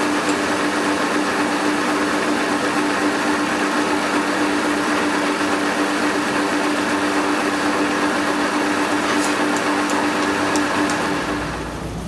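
A machine running steadily with a constant hum and a hiss, stopping shortly before the end.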